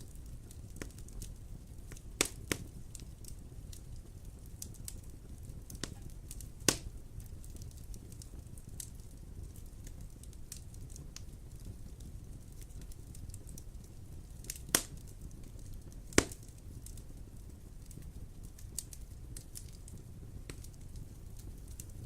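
Wood fire burning with a low steady rumble and scattered crackles, with several sharp, louder pops about 2, 6.5, 14.5 and 16 seconds in.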